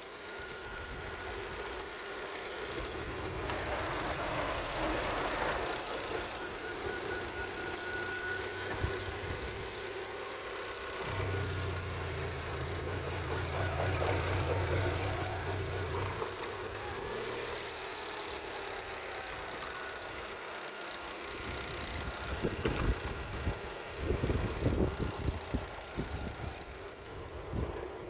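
Opel Vectra C's 1.8 Z18XER four-cylinder petrol engine running on test. A stronger, steady low note holds for several seconds midway, and a few irregular low thumps come near the end.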